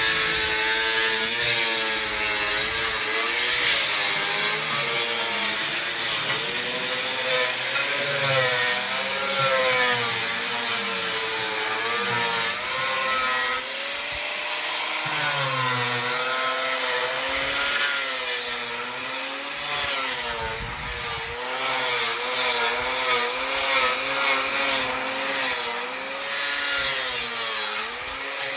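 Power sander grinding thick hard paint off wooden rafters. Its motor whine keeps wavering up and down in pitch as the sander is pressed and moved over the wood, over a steady rasping hiss.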